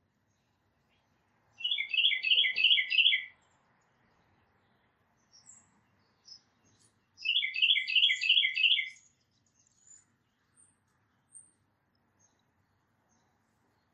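A songbird singing two phrases of quickly repeated two-note whistles, each phrase about a second and a half long, with a pause of a few seconds between; faint high chips from other small birds in between.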